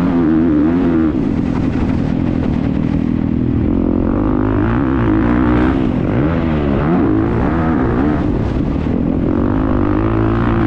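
Motocross motorcycle engine heard on board, revving up and down with the throttle, its pitch dipping and climbing again around the middle.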